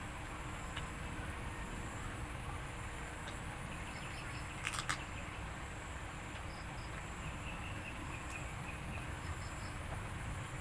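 A person eating at close range: low chewing and handling noise, with two sharp cracks close together about five seconds in. Faint insect chirps in the background.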